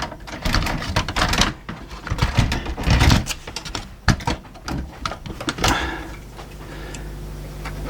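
Irregular clicks and knocks of small plastic and metal VCR mechanism parts being handled and fitted during reassembly, dying away about six seconds in to a steady low hum.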